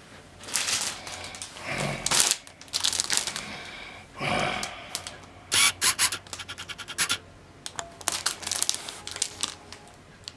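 Packaging being handled and pulled open as a laptop hard case is unboxed: irregular bursts of rustling and scraping, with a fast run of clicks about halfway through.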